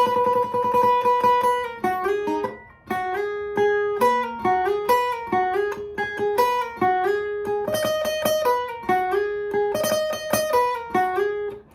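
Guitar playing a single-note melodic line: one long held note, then a busy run of shorter notes.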